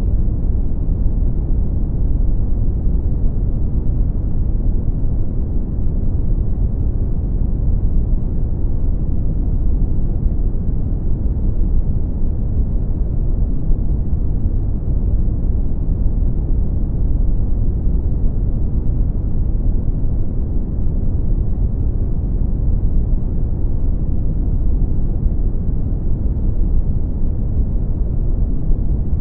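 Brown noise: a steady, deep rumble-like hiss, heaviest in the bass, with no rhythm or change.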